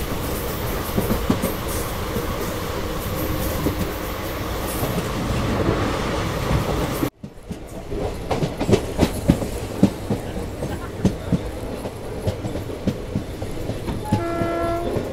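Passenger train coaches running at speed, heard from outside the side of the coach: a steady rush of wheel and wind noise, then, after a sudden break about halfway, sharper irregular clicks and knocks of the wheels over the rail joints. A train horn starts sounding near the end.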